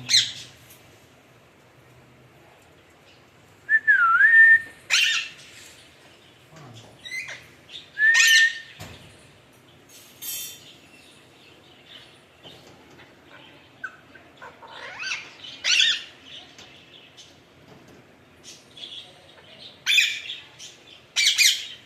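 Alexandrine parakeet calling in short, harsh squawks scattered with pauses between them, with a couple of clear whistled notes about four and eight seconds in.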